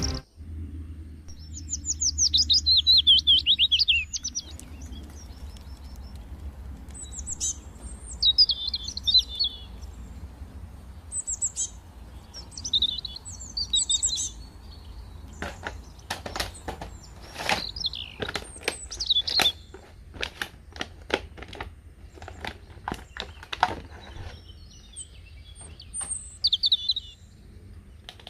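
Bird chirping in short, rapid, warbled phrases, repeated throughout. In the middle stretch a run of sharp clicks and taps joins in.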